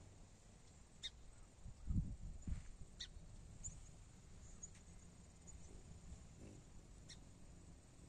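Faint outdoor background with a few short, high bird chirps scattered through it, and a couple of low thumps about two seconds in.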